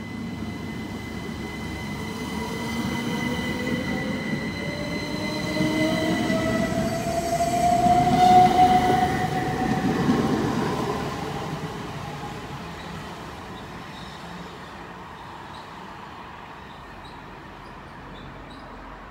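Class 375 Electrostar electric multiple unit accelerating past, its traction motors whining up in pitch over a rumble of wheels on rail. It is loudest about eight to ten seconds in, then fades as the train draws away.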